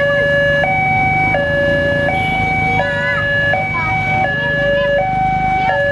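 Railway level-crossing warning alarm sounding: a loud electronic two-tone signal switching between a higher and a lower tone about every 0.7 s, warning that a train is approaching and the barrier is closing.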